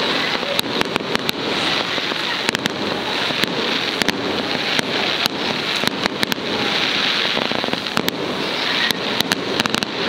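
Fireworks display: a long line of ground fountain fireworks hissing steadily, with sharp cracks and pops scattered irregularly throughout.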